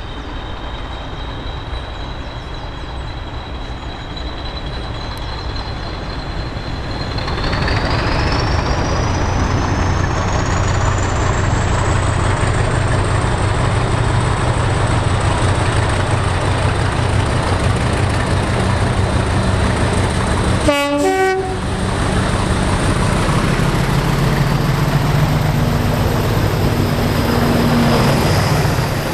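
Diesel locomotive working hard: its engine drone builds and a high turbocharger-like whine climbs in pitch about a quarter of the way in, then holds. A brief horn toot sounds about two-thirds through.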